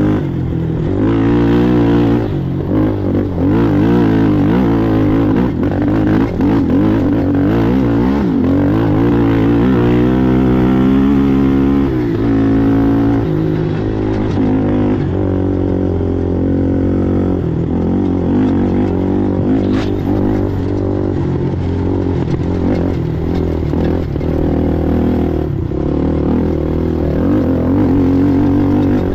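Race ATV engine running hard throughout, its pitch rising and falling again and again with the throttle and gear changes.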